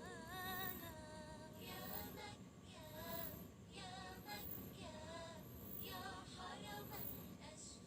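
Background music: a voice singing long, wavering, ornamented phrases with short breaks between them.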